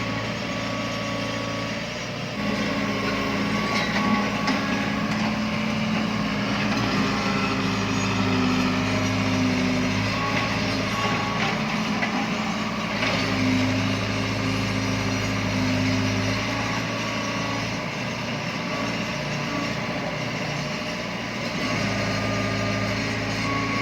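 Heavy diesel machinery engine running steadily, its note shifting up and down a few times with load, with a few faint knocks.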